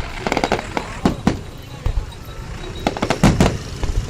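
Fireworks going off in a series of sharp bangs, with the loudest cluster about three seconds in.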